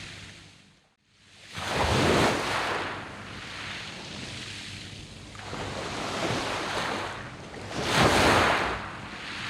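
Sea waves breaking and washing up a beach of round pebbles: two big surges, about two and eight seconds in, with lower wash between them. A brief drop almost to silence comes about a second in.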